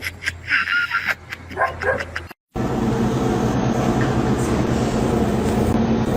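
A dog barks and yips over quick clattering clicks. After a brief dead gap at a cut, a loud steady drone with a low hum takes over.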